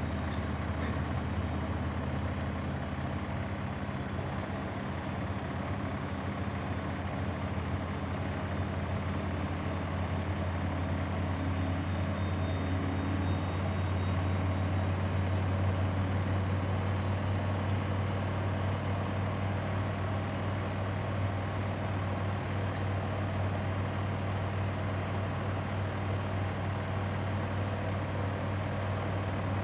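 Grundig front-loading washing machine spinning, a steady drum hum with no pauses that grows slightly louder about halfway through.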